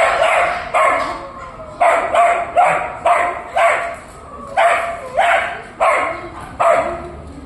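A dog barking repeatedly, about a dozen short, sharp barks at one to two a second, some in quick pairs.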